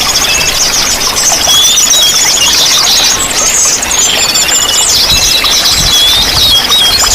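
Several small songbirds singing at once, with high-pitched chirps and rapid trills overlapping, over the steady rush of running water.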